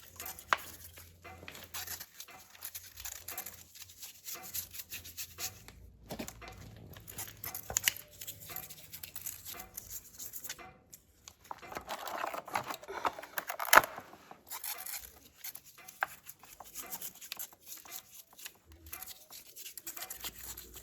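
Irregular clicks, taps and scrapes of hands working with tools and parts, with a denser stretch of scraping about twelve seconds in that ends in a sharp knock.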